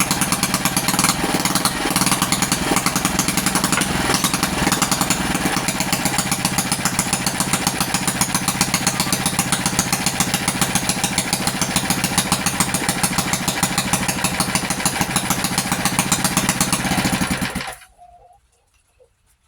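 Mini chopper motorcycle's small engine running with a fast, even firing beat, then cutting off suddenly near the end. The owner takes the engine to be flooding, probably from a dirty carburettor needle seat and water in the tank.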